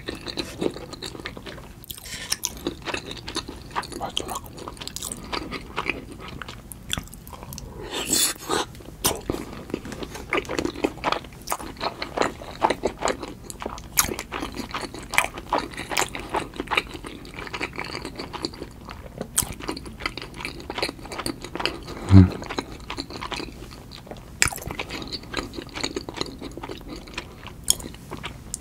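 Close-miked chewing of a large salmon sushi piece dressed in tartar sauce: a steady run of small, irregular mouth clicks. About three quarters of the way through comes one brief, louder low-pitched sound.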